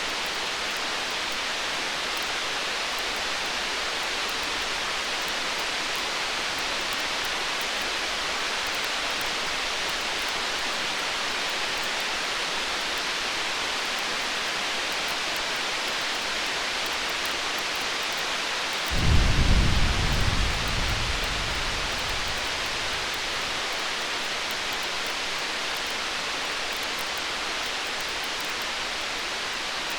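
Distant thunder: one low rumble comes in suddenly about two-thirds of the way through, then dies away over about four seconds. Underneath is a steady hiss with faint crackles from a campfire.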